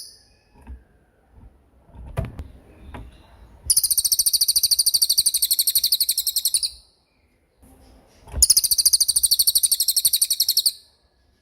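Small songbird singing two long, very rapid high-pitched trills, about three seconds each, with a short pause between them. A few faint knocks come before the first trill.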